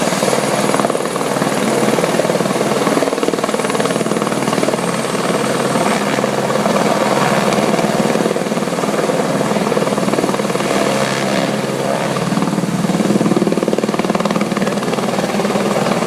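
Helicopter running steadily, its rotor and engine heard without a break.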